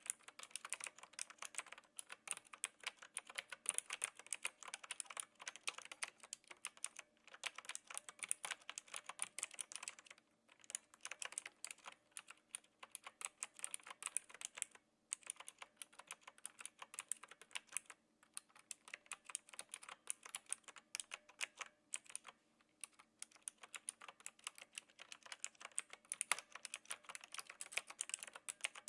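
Typing on a Knewkey Rymek typewriter-style mechanical keyboard with blue switches: a fast, steady run of clicky keystrokes, broken by a few short pauses.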